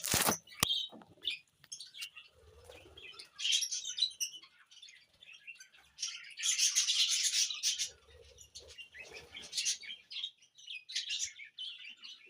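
Small pet birds chirping and chattering in uneven bouts, busiest about six to eight seconds in. A sharp click sounds right at the start.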